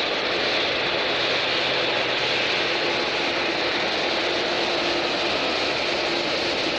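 Jet airliner engines running steadily, a constant rushing noise with a faint low hum under it.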